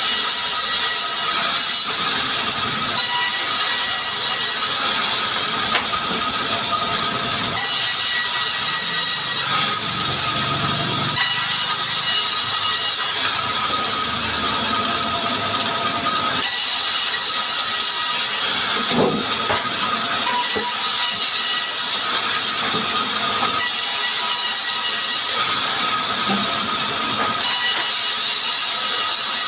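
Wood-sawing machinery running steadily: a constant high hiss with faint thin whining tones.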